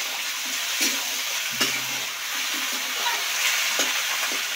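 Cauliflower florets and potato pieces sizzling in hot mustard oil in a karahi: a steady frying hiss. A flat spatula turns them, clicking and scraping against the pan a few times.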